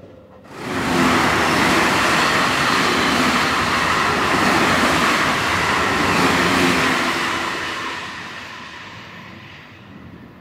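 A train passing close by. Its running noise comes in abruptly about half a second in, stays loud for about six seconds, then fades away.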